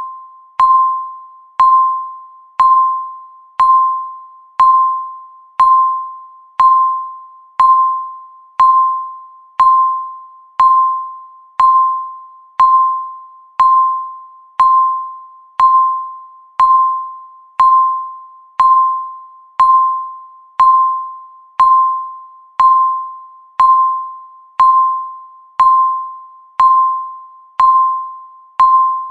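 Countdown timer's electronic beep sounding once every second, a single ding-like tone that dies away quickly after each strike, repeated evenly to mark the seconds counting down.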